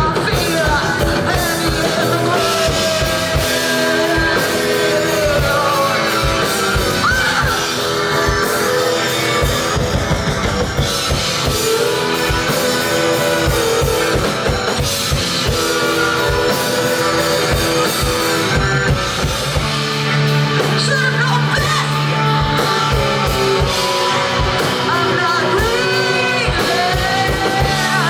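Live rock music with drum kit and guitar, and a voice singing or wailing over it, loud and steady throughout.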